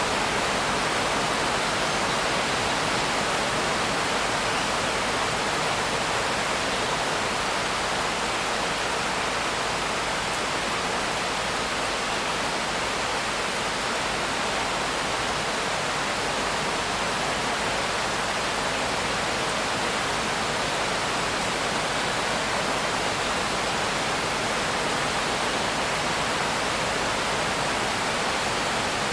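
Steady, dense rain hiss with no single drops or thunder standing out, unchanging throughout.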